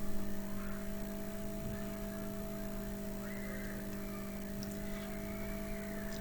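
Steady electrical hum with several constant tones under faint room noise. A faint hiss joins it about halfway through.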